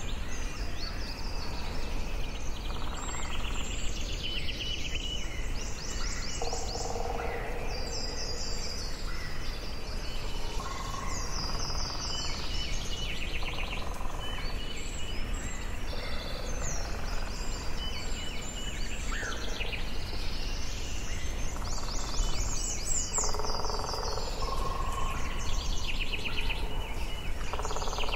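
Forest ambience: several birds singing and calling over one another, with fast high trills and repeated chirps, and some lower call notes. A steady low background noise runs underneath.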